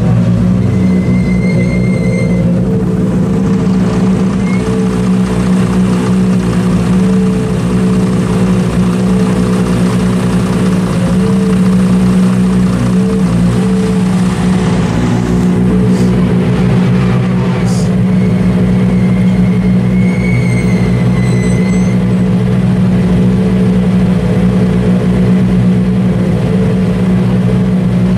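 A vehicle engine running steadily at an unchanging speed, as when idling, with two brief clicks about 16 and 18 seconds in and faint high thin tones near the start and about 20 seconds in.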